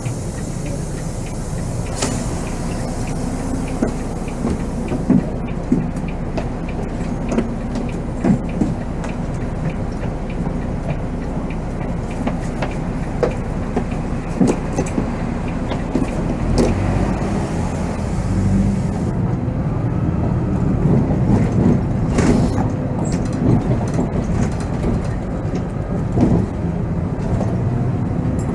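Volvo B7R coach under way, heard from the driver's cab: its diesel engine and road noise run steadily, with frequent short knocks and rattles from the bodywork. A high hiss drops away about two-thirds of the way through.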